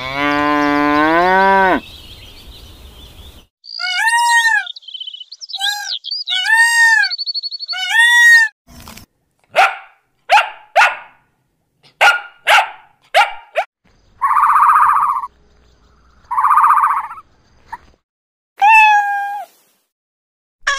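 A string of different animal calls cut one after another. First a long low call with a falling then rising pitch, then a run of high arched squeals or yelps, then a run of short sharp calls, two harsher calls, and one more arched call near the end.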